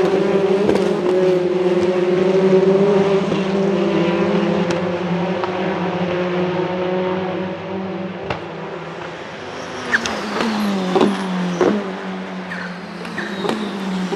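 Hyundai Elantra N's turbocharged 2.0-litre four-cylinder engine running at steady revs for about eight seconds. It then comes off the throttle, with a run of sharp exhaust pops and crackles and short rev blips on downshifts.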